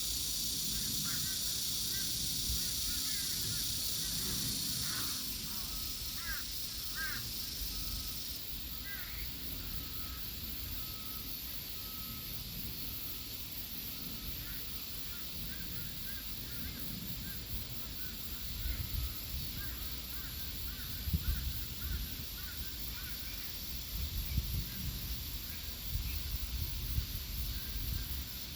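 Water birds give short gliding calls, many in the first half and fewer later, over a steady high chirring of insects. The insect chirring is loudest for the first few seconds. A low rumbling grows in the second half.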